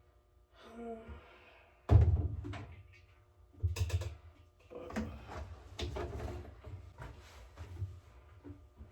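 A run of knocks and thuds from things being handled, the loudest about two seconds in, with softer rustling between them.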